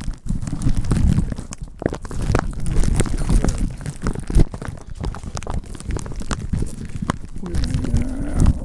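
Irregular crunching and crackling close to the microphone, over a low wind rumble.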